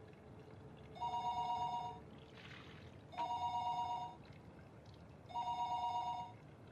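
Telephone ringing tone, three one-second two-tone rings about two seconds apart, left unanswered: the call does not get through.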